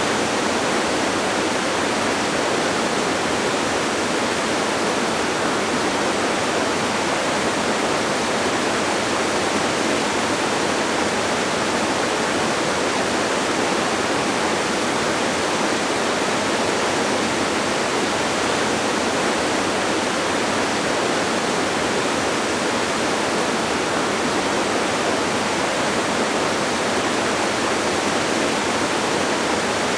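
Waterfall: a steady, even rush of falling water with no changes, and little deep rumble beneath it.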